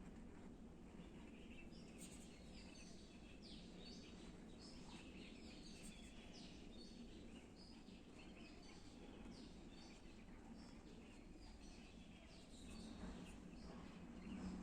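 Faint birdsong: several small birds chirping in quick, short high notes, over a steady low background hum.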